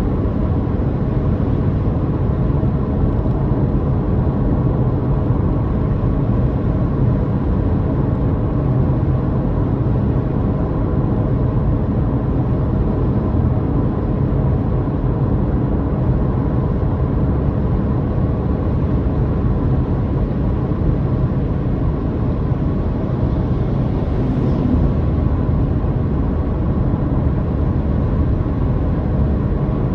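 Car on the move: the motor droning steadily under low road and tyre rumble.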